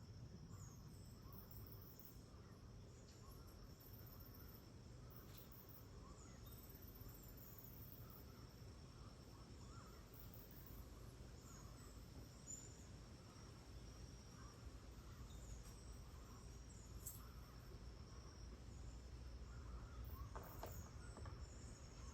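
Faint tropical rainforest dawn chorus: a steady high-pitched insect drone with scattered short bird chirps and calls over a low rumble.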